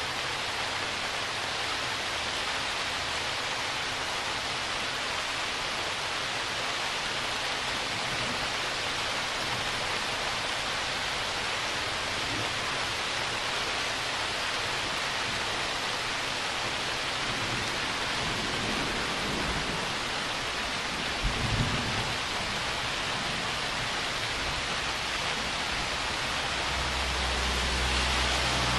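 Steady rain falling in a thunderstorm, an even hiss throughout. A brief low thump comes about two-thirds of the way in, and a low rumble swells near the end.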